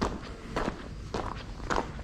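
Footsteps of a person walking at an even pace, about two steps a second, four steps in all.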